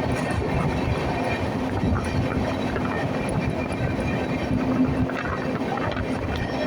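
Swaraj Express passenger train running along the track: a steady rumble of wheels on rails with a low hum.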